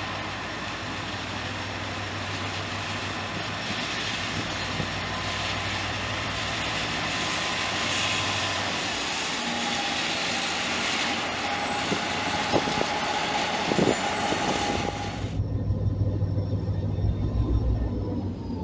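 A diesel-hauled train passes on the rails, with the EMD GT22CW diesel locomotive and the rushing and clatter of the train, a few sharp clicks and a faint steady tone. The rushing noise cuts off suddenly about fifteen seconds in, leaving a low rumble.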